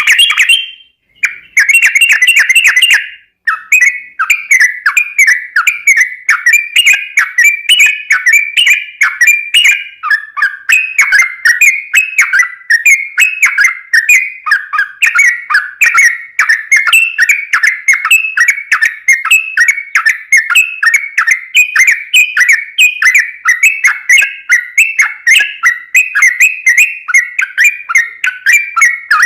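Sooty-headed bulbul (trucukan) singing a rapid, continuous run of short chirping, whistled notes, with brief pauses about one and three seconds in.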